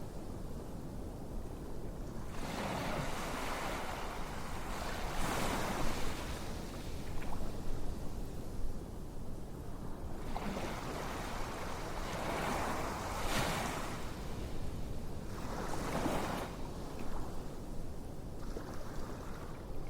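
Ocean waves washing in, a steady surf noise that swells and falls back every few seconds.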